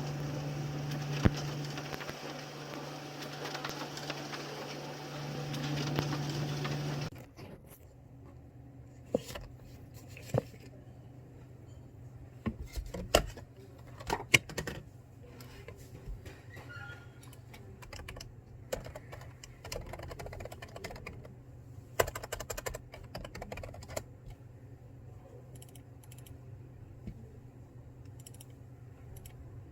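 Computer keyboard typing: irregular clicks and short runs of key taps. For the first seven seconds a louder steady hum sits underneath, then cuts off suddenly.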